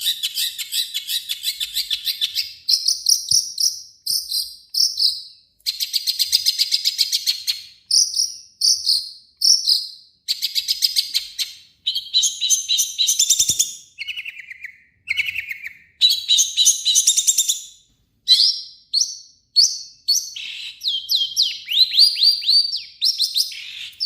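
Long-tailed shrike (cendet) singing non-stop: a varied run of harsh, rapid chattering trills and buzzy phrases, broken by short pauses. Near the end comes a quick series of downward-slurred notes.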